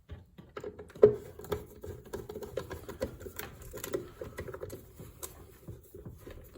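Irregular small clicks and light rattling of a hand tool with a T20 Torx bit working the screws of a headlight assembly, with one sharper click about a second in.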